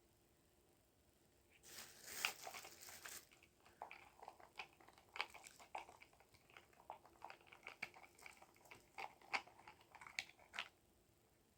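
Faint crinkling and small clicks of things being handled, beginning about two seconds in and going on in quick, irregular bursts until shortly before the end.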